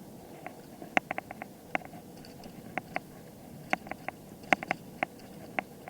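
A bicycle rattling as it rides over bumps: irregular sharp clicks and ticks, some in quick clusters, over a faint steady rolling noise.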